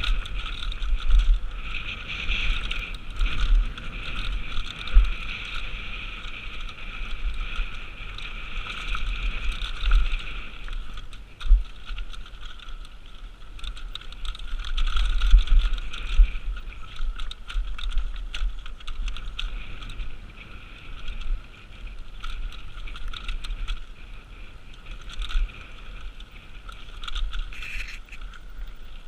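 A downhill mountain bike riding down a dirt trail: a steady noise of tyres rolling over dirt, with frequent knocks and rattles as the bike takes bumps, and wind buffeting the camera microphone.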